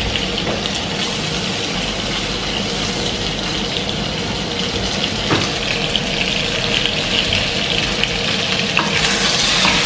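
Maultaschen pieces frying in hot oil in a wok: a steady sizzle with fine crackling. A brighter, louder hiss comes in near the end.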